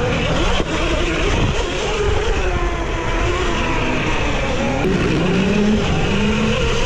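Dirt bike engines revving up and down on a motocross track, under a steady rush of wind on the microphone.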